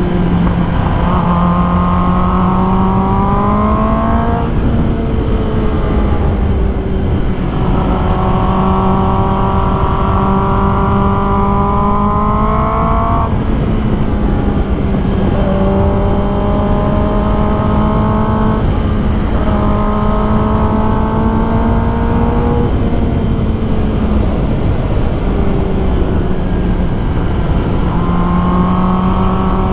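Kawasaki ZX10R's inline-four engine running at speed, its pitch climbing slowly in several stretches and easing off between them, over a steady low rush of wind.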